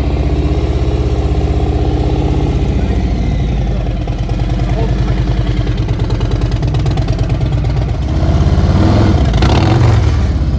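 Harley-Davidson V-twin motorcycle engine running at low revs with an even pulsing beat, then revved louder and higher for a moment near the end as the bike is ridden up a ramp.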